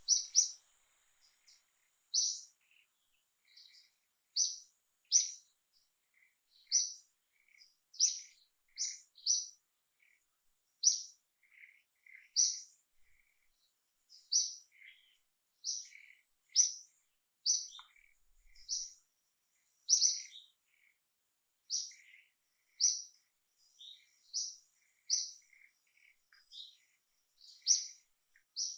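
A bird chirping: short, high chirps repeated over and over, roughly once a second, with no other sound beneath them.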